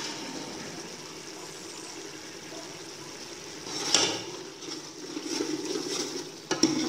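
Chicken masala sizzling and bubbling in oil in a cooking pot. About four seconds in, a metal spoon clacks against the pot and starts stirring, scraping through the masala. The masala is being fried in oil until the oil rises to the top.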